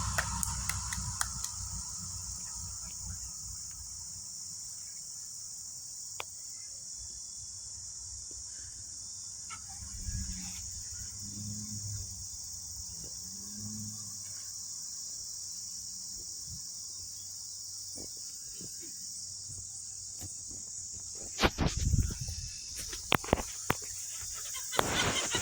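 Steady high-pitched chirring of insects, with a truck's low engine rumble fading away in the first few seconds and a few loud knocks near the end.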